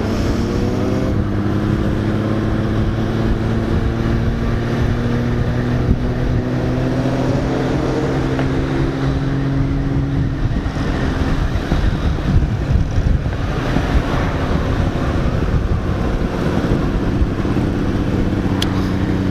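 Honda Valkyrie F6C's flat-six motorcycle engine running while riding, heard from on board with some wind noise. Its note eases slightly lower over the first half, turns rougher and noisier midway, then settles into a steady note again near the end.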